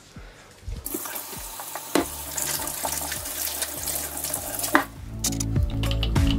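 Kitchen tap running for hand-washing, starting about a second in and stopping a little before the end. Background music comes in near the end.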